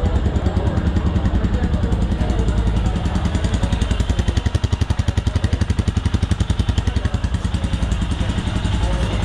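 Royal Enfield Himalayan's 411cc single-cylinder engine idling, its exhaust pulsing in a steady, even beat.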